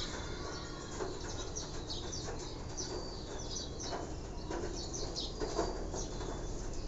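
Small birds chirping in the background: short, high calls that come every second or so over a steady low background noise.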